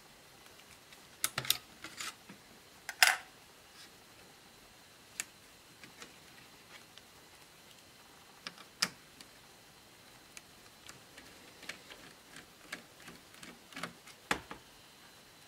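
Scattered small clicks and taps of plastic laptop parts, connectors and tools being handled while a laptop is taken apart, a few sharper knocks among lighter ticks.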